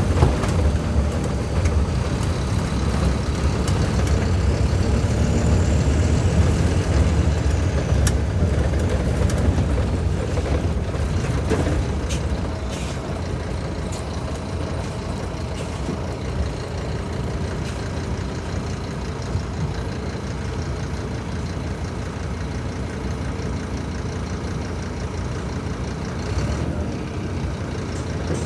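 Scania K310IB bus diesel engine running steadily, louder for about the first half and then settling to a lower, even level.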